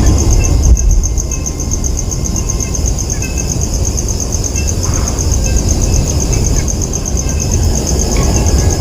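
Insects trilling steadily, a high, fast-pulsing buzz, over a heavy low rumble, with faint short chirps here and there.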